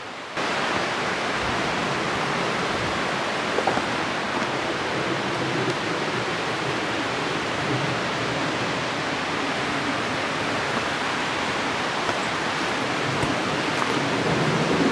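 Steady rushing of a mountain creek's flowing water, starting just after the opening instant.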